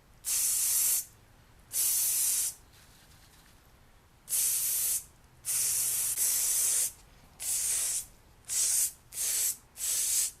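Aerosol can of foam rejuvenator spraying onto motorcycle seat foam in about eight or nine short hissing bursts, each lasting half a second to a second, with brief pauses between.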